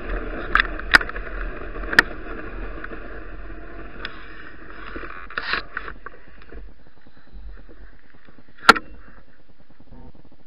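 Bicycle ridden through snow and slush: a steady rush of tyre and wind noise, with sharp knocks about half a second, one second and two seconds in and again near nine seconds. The rushing fades after about six seconds.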